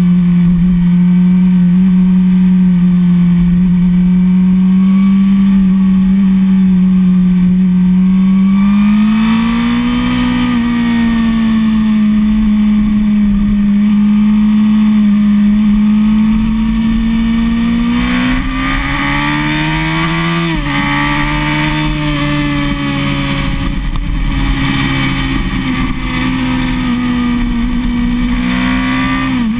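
Suzuki SRAD 1000 sportbike's inline-four engine running steadily under throttle at highway speed. The pitch rises twice, and drops suddenly with an upshift about 20 seconds in and again at the very end.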